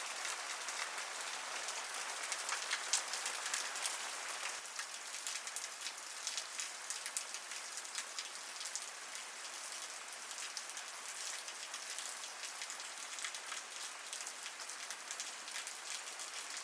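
Steady rain falling, with many separate drops striking. It eases slightly about four seconds in.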